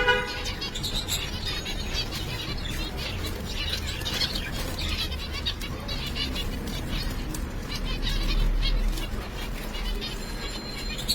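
Pet finches chirping, many short high calls overlapping, with brief flutters of wings.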